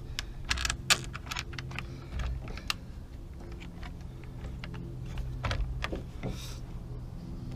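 Irregular small metal clicks and clinks as a screw, washer and hand tools are handled while a handle is fastened back onto a hedge trimmer, over a steady low hum.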